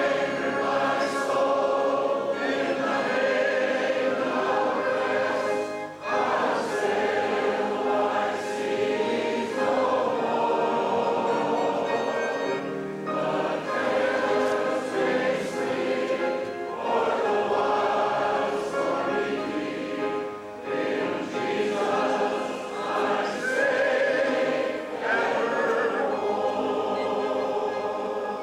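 A choir singing a sacred song in sustained phrases, with brief breaths between them.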